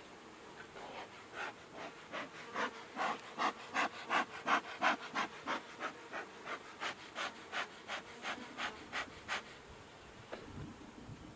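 A person breathing hard in quick, even puffs, about three a second, while lifting and carrying a heavy Langstroth hive box. The puffs grow louder and then fade, with bees buzzing faintly behind them and a light knock near the end.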